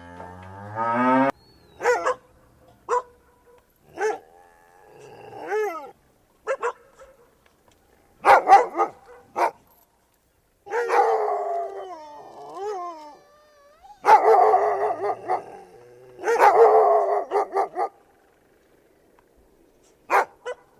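A dog barking and yelping in short bursts, with a longer wavering, howl-like call in the middle and rapid runs of barks near the end. Before that, an animal call rises in pitch at the very start.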